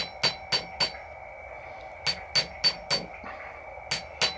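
Light hammer taps on a soft bronze plug from an engine head, each a short ringing metallic tink, in quick groups of about four taps a second with short pauses between. The taps are flattening the plug's pried-up, torn edges.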